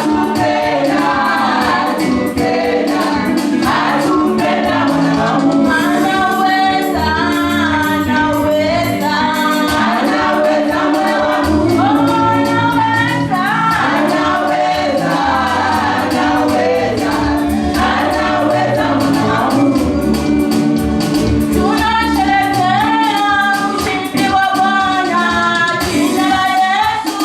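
Group of voices singing a gospel worship song over instrumental backing with a steady percussion beat.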